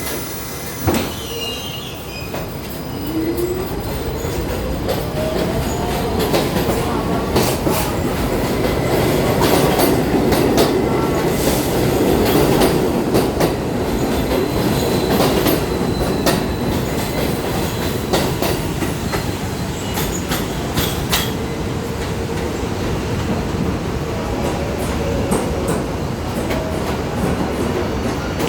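New York City subway train running through the station: a motor whine rises steadily in pitch over the first several seconds as it gathers speed, with wheels clacking over rail joints and some squealing. The noise builds to its loudest about halfway through and stays loud.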